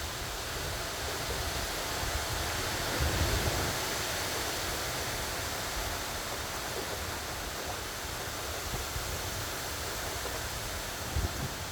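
Steady rain falling, a continuous even hiss, swelling slightly about three seconds in.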